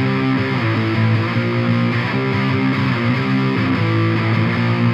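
Electric guitar played through a Biyang OTD-100 distortion pedal with a 12AX7 valve, its knobs turned all the way up, giving a grungy, distorted tone. Sustained chords and notes ring out, changing every second or so.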